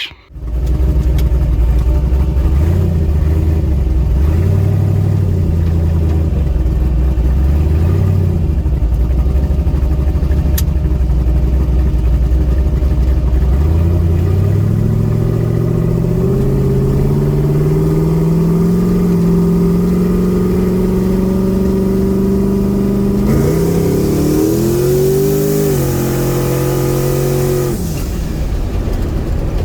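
Car engine, most likely the twin-turbocharged Chevy Nova, idling with an uneven lope, then climbing slowly in revs. About 23 seconds in it accelerates hard with a rushing hiss, the pitch rising and dropping in steps as it shifts gears, then backs off near the end.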